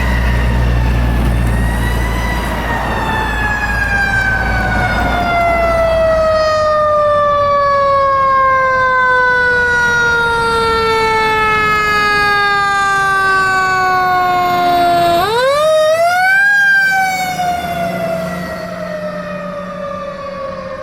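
Fire engine siren wailing: its pitch falls slowly for about thirteen seconds, then sweeps sharply back up and begins falling again, with a low rumble under it for the first few seconds.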